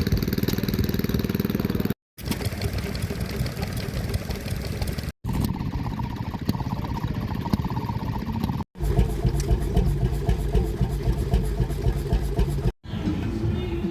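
Diesel tractor engine running hard under load in a tractor pull, heard in several short clips with abrupt cuts between them; the last stretch has strong low, rapid pulsing.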